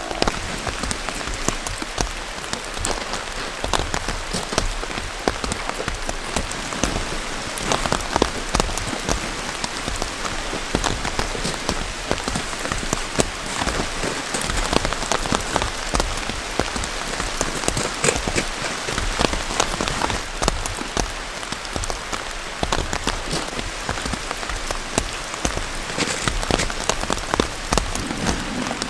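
Heavy rain falling steadily, with many individual drops pattering close by.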